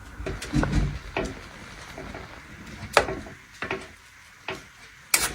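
Scattered knocks and clicks of hands-on cooking work, about five in all, the sharpest about three seconds in and just before the end.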